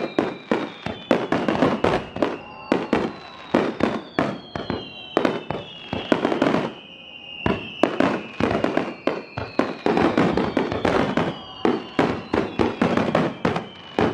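Fireworks going off in rapid, dense bangs and crackles, with high whistling tones that glide slowly downward in pitch, several overlapping. The bangs thin out briefly about seven seconds in.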